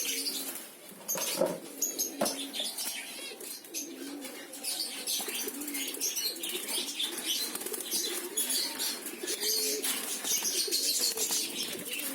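Caged diamond doves fluttering their wings, with low cooing through most of the stretch.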